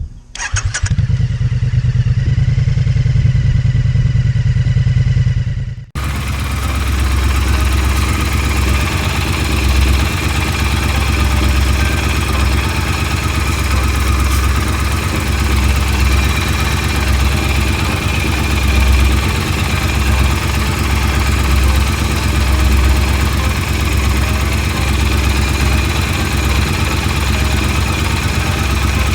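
Triumph parallel-twin motorcycle engine running, heard as two separate recordings. The first lasts about six seconds and cuts off suddenly; the second runs on steadily, with the engine's low beat rising and falling a little.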